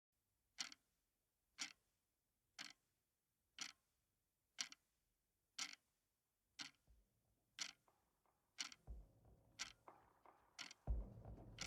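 Clock ticking steadily, one sharp tick a second. A low rumble of background sound fades in over the last few seconds.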